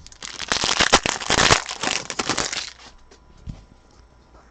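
Trading-card pack's foil wrapper being torn open and crinkled, a dense crackle for nearly three seconds that then stops, followed by a light knock.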